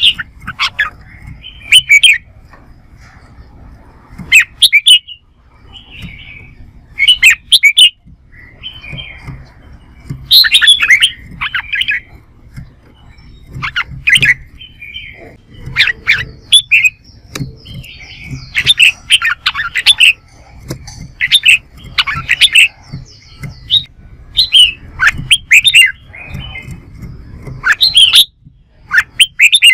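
Red-whiskered bulbul (chào mào) singing in short, loud, rapid phrases of whistled and chattering notes, one phrase every second or two, in the competitive 'fighting song' style.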